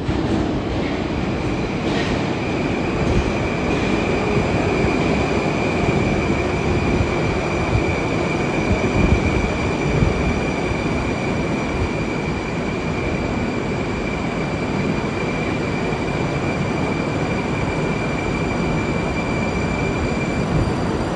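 Moscow Metro "Moskva"-type train running at a station platform: a loud, steady rumble of wheels on rail with a steady high whine held through almost all of it.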